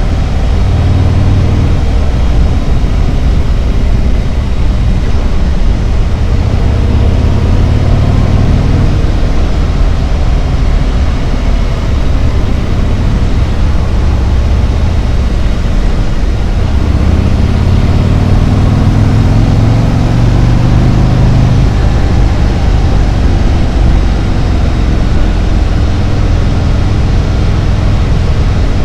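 Harley-Davidson Road Glide's V-twin engine running while riding, with rushing wind and road noise. The engine note shifts in pitch and swells louder a little past the middle.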